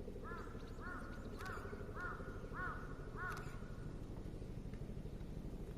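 A crow cawing, six short calls in about three seconds, over a steady low rumble.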